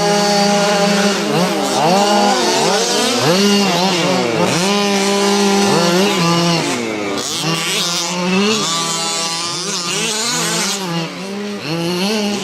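Small two-stroke petrol engines of several HPI Baja 5T 1/5-scale RC trucks running together, each revving up and easing off over and over so that their engine notes rise, fall and overlap.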